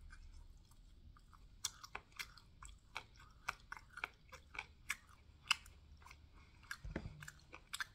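Close-miked chewing of a sauced chicken wing. After a quiet first second and a half, a string of sharp wet mouth clicks and smacks comes about twice a second, with a low bump near the end.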